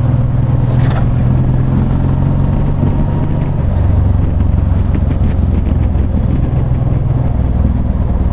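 Honda VTX1800's big V-twin engine running under way, a steady low drone whose note drops about halfway through.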